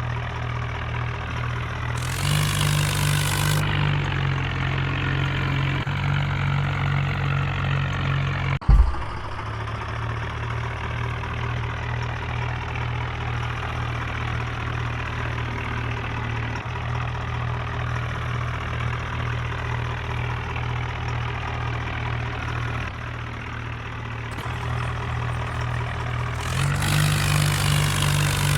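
Tractor engine running steadily at idle, revving up a little twice: briefly a couple of seconds in and again near the end. There is a single sharp thump about a third of the way through.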